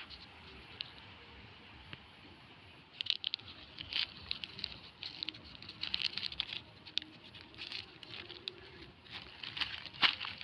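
Plastic sheeting crinkling and crackling as it is handled, in irregular bursts of sharp crackles that begin about three seconds in.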